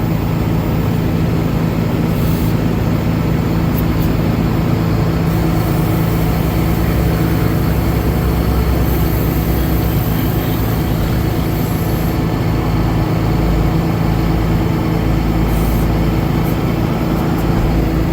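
Cummins 6.7-litre inline-six diesel of a Ford F750 truck running steadily while it drives the hydraulics that raise the dump bed.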